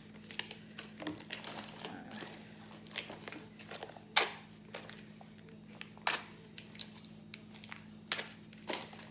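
Plastic wrappers of cheese sticks crinkling and rustling as they are handled and sorted, with a few sharp knocks, the loudest about four seconds in.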